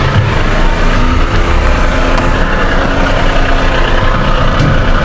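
Car engine idling, a steady hum mixed with street noise, heard from inside the car.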